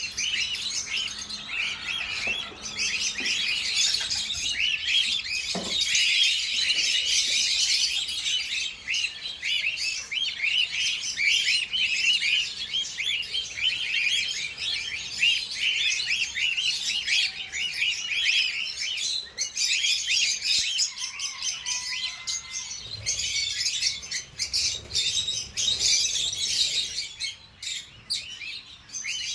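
A group of parrots chirping and twittering nonstop, many quick high calls overlapping each other, thinning out a little near the end.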